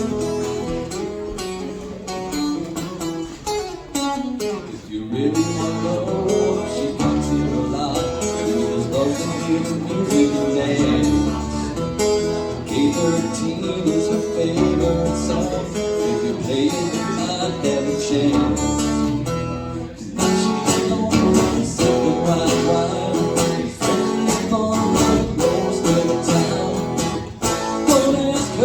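Live acoustic guitar playing a country instrumental passage, strummed and picked, with a short lull about four seconds in and another past the middle.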